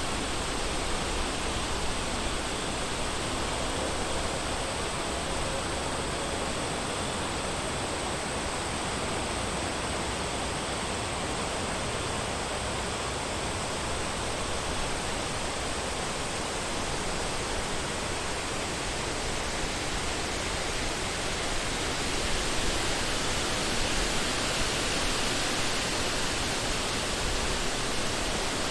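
Wind blowing through forest trees, a steady rush that swells a little near the end.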